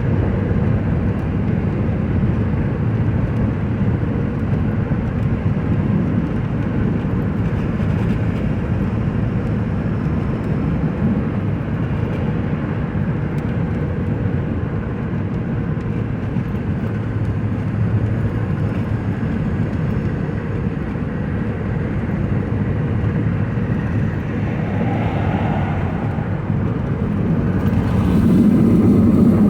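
Steady road and engine noise heard from inside a car driving down a freeway, swelling louder for a moment near the end.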